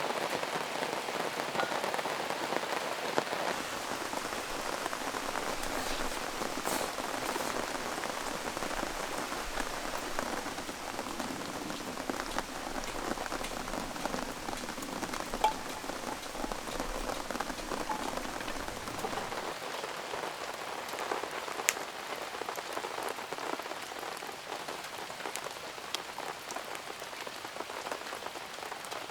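Heavy rain falling in a steady, dense patter, with a few sharper ticks of single drops.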